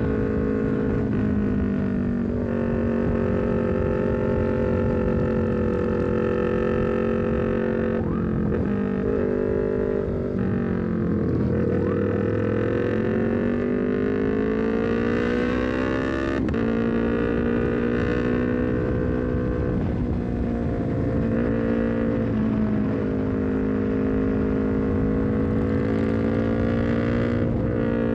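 Honda CBR250RR parallel-twin engine breathing through an R9 full-system header and short Leovince GP Corsa carbon silencer, running under way. Its note holds steady, steps in pitch at gear changes, dips about ten seconds in, then rises over several seconds and falls back.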